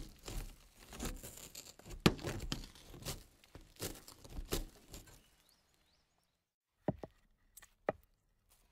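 Impact sound effect: a rapid, irregular run of knocks and crackles for about five seconds, then, after a short silence, a few sharp separate knocks near the end.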